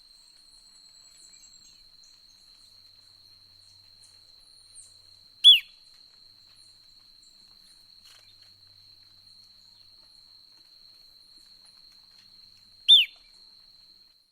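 Two loud, short bird calls, each a quick downward sweep, about seven seconds apart, over a steady high-pitched insect trill and faint high chirps.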